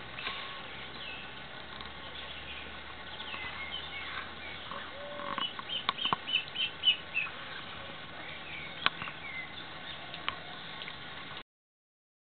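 Birds chirping: scattered short, high calls, with a quick run of about six notes in the middle and a few sharp clicks.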